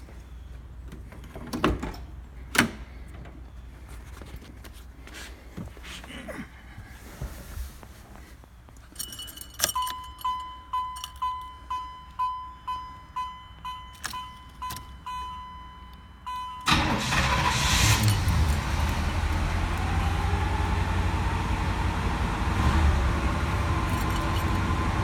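A few sharp clicks and keys jangling, then the 1989 Chevrolet Caprice's dashboard warning chime dinging about twice a second for some seven seconds. About seventeen seconds in the engine catches at once on its first cold start of the morning and settles into a steady idle.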